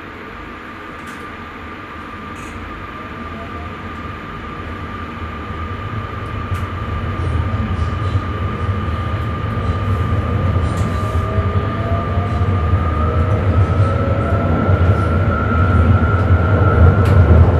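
Sprinter electric train pulling away and gathering speed, heard from the driver's cab: the traction motors' whine rises in pitch while the running rumble steadily grows louder.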